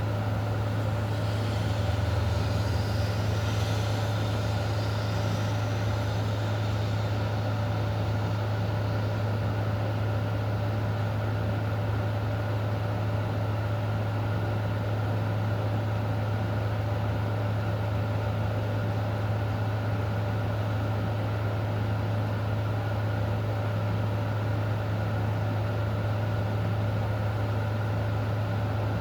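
Steady low mechanical hum with a few fainter steady tones above it, over an even hiss. A faint, higher hiss swells and fades in the first few seconds.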